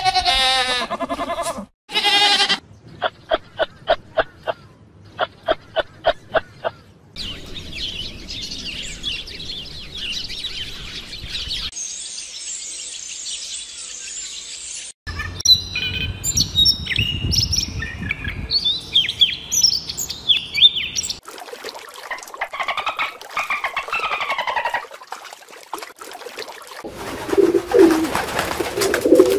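A run of animal calls: goats bleating briefly at the start, then rows of short chirps and varied bird song, and low pigeon coos near the end.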